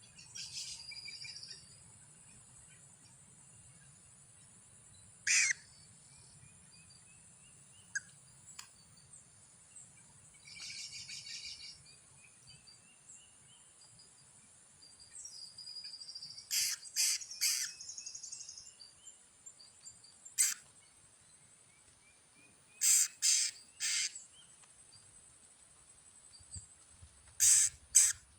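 Birds calling: short, sharp call notes, singly and in quick groups of two or three, with a few brief trilling songs between them. A steady high-pitched insect drone runs underneath.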